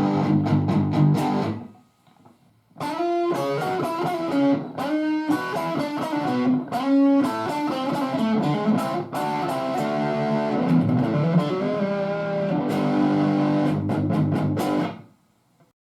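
Electric guitar played through a Marshall DSL5-series 5-watt valve combo with a 10-inch Celestion Ten 30 speaker, on its full-gain drive setting: a distorted riff of chords and single notes. It breaks off briefly about two seconds in and ends about a second before the close.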